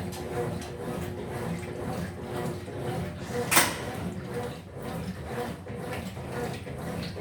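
Electrolux LF75 top-loading washing machine running through its wash cycle: a steady motor hum with water churning inside. One sharp knock about three and a half seconds in.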